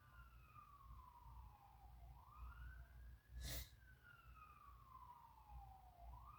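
Faint fire truck siren in a slow wail: the pitch falls over about two seconds, rises quickly, then falls again. A sharp click comes about three and a half seconds in, over a low rumble.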